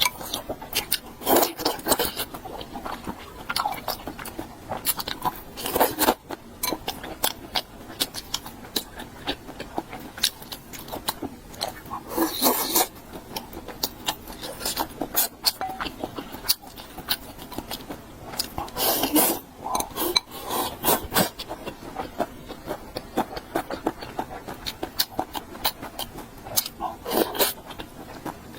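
Close-miked eating sounds: chewing and crunching mouthfuls of food, with dense wet mouth clicks and several louder crunchy bursts, and now and then utensils scraping against the dish.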